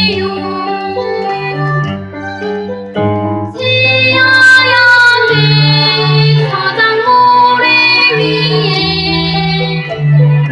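A child singing a Korean children's song over keyboard accompaniment.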